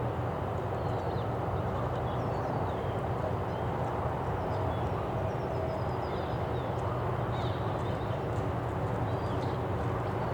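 City park ambience: a steady low rumble with faint, brief bird chirps now and then.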